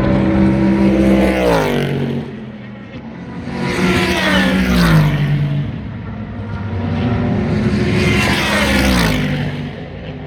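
Super GT race cars passing close by one after another at speed, three in turn, each engine note dropping in pitch as the car goes by.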